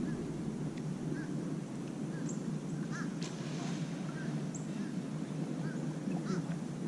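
Birds calling in short scattered chirps over a steady low background noise.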